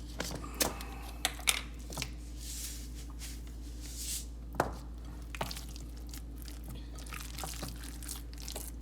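Bare hands squeezing and kneading a wet raw ground turkey and chicken mixture with breadcrumbs: irregular squishing and sticky smacks, the sharpest about a second and a half in and again past the middle, over a steady low hum.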